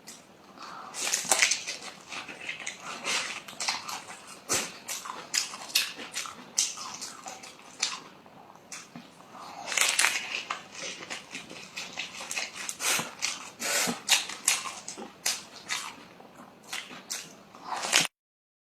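Close-miked chewing and crunching of food in the mouth: a dense, irregular run of wet smacks and crisp crunches that cuts off suddenly near the end.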